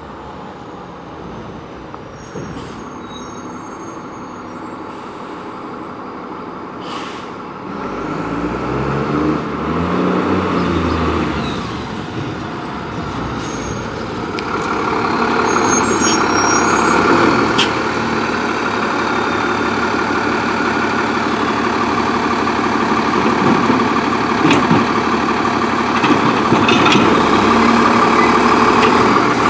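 Heavy garbage truck's diesel engine running, its pitch rising and falling briefly about eight to eleven seconds in, then louder and closer through the second half.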